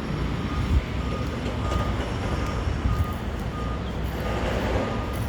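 A truck's reversing alarm beeping in a steady, evenly spaced rhythm over the truck's running engine.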